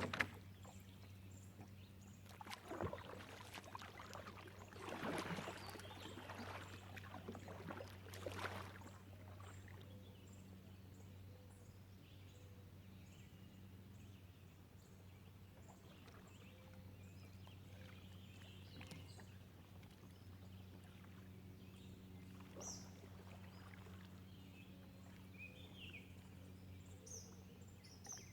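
Water splashing a few times in the first nine seconds or so, then faint high bird chirps near the end, over a steady low hum.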